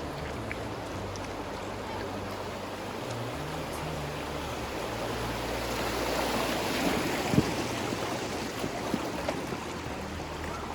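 River current rushing around inflatable kayaks drifting through moving water, swelling louder about six seconds in. A sharp knock cuts through about seven seconds in.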